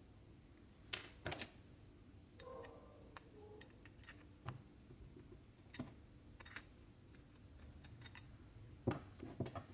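Scattered light taps and metallic clinks of small carburetor parts being handled. The loudest, about a second in and again near the end, ring briefly like small metal pieces striking each other.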